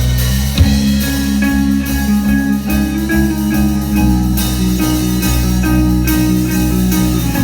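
A rock band playing live: sustained guitar and keyboard-like notes over a steady bass line, with a regular light beat.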